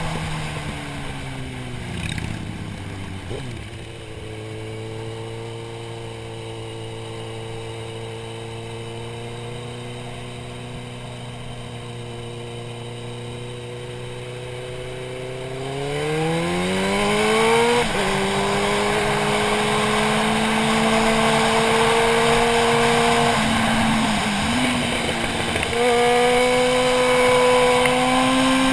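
Motorcycle engine heard from the rider's helmet with wind noise. The engine note falls as the bike slows, then holds steady at low revs for about ten seconds. Past the middle it climbs as the bike accelerates, drops suddenly at a gear change, and dips and rises again with another shift near the end.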